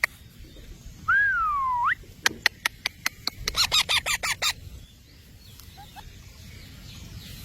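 A pet parrot calling: one whistled note that dips and then rises, about a second in, followed by a quick run of sharp clicks and a fast, harsh chatter.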